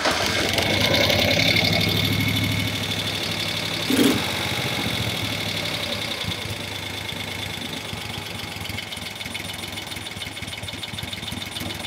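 1971 Moto Guzzi Ambassador's V-twin engine running just after starting on a fresh tune-up. It is a little faster and louder for the first couple of seconds, then settles to a steady idle, with a brief thump about four seconds in.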